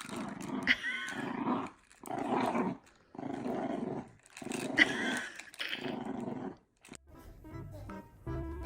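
Dog growling in a run of rough bursts, each under a second, with two short high squeaks among them. Music with steady notes comes in near the end.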